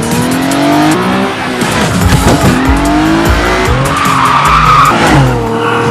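Car engines revving up and down with tyres squealing, with a loud squeal about four to five seconds in.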